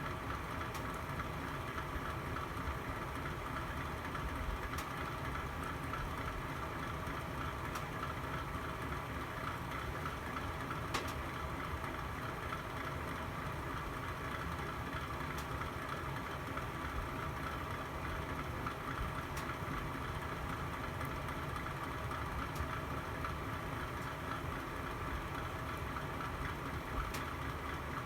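Fire burning in a fireplace: a steady rumbling hiss with a sharp crackle every few seconds, the clearest about eleven seconds in.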